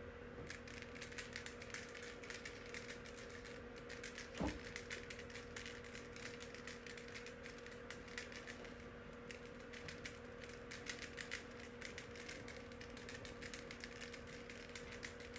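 Rapid, irregular light clicking and tapping over a steady electrical hum, with one louder knock about four and a half seconds in.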